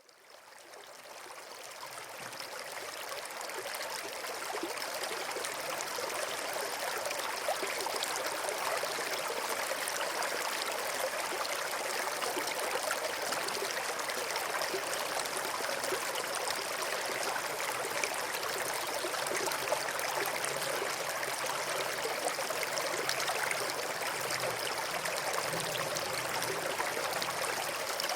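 River water flowing and splashing over rocks, a steady rushing with small gurgles, fading in over the first few seconds.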